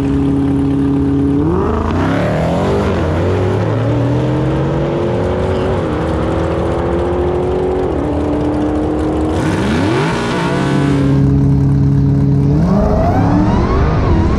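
High-performance car engine held at steady revs, then accelerating hard with its pitch climbing and dropping back through several gear shifts; it steadies again briefly and starts climbing once more near the end.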